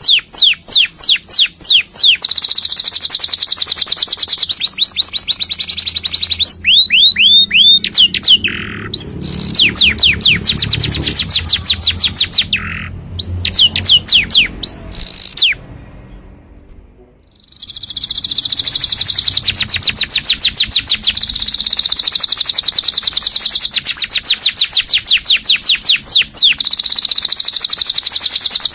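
Domestic canary singing long, rapid trills of repeated falling whistled notes, changing from one trill to another. The song breaks off briefly a little past halfway, then resumes with long, fast trills.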